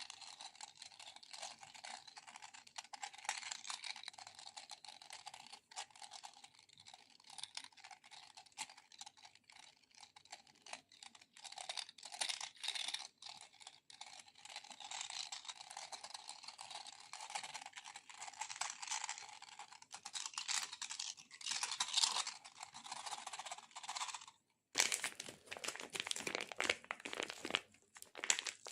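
Dense, rapid crackling and peeling of a sticky surface being tapped and pulled apart. About 25 seconds in, after a brief break, it switches to a fuller crackling sound.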